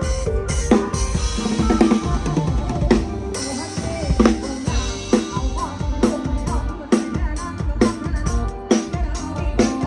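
A live band playing with a PDP drum kit to the fore: kick drum, snare and rimshot hits keep a steady beat under pitched band instruments.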